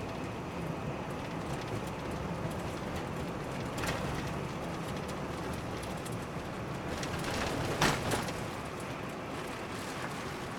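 Steady engine and tyre noise of a car driving on a winter road, heard from inside the cabin, with two brief louder swells of noise about four and eight seconds in.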